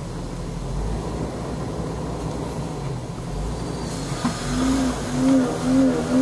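Jeep engine running as the four-wheel drive moves along a rutted dirt trail, a steady low rumble. About four seconds in, a pitched engine tone starts to swell and fade about twice a second, as in repeated revving.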